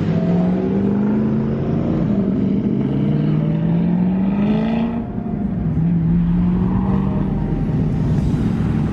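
Car or truck engine pulling away, its pitch rising slowly for about five seconds, then a short drop and a steady engine note to follow.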